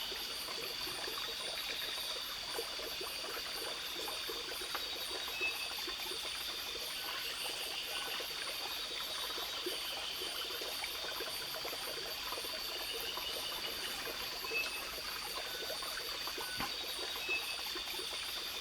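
Trickling stream water running steadily under a continuous high insect chorus, with a few short high chirps.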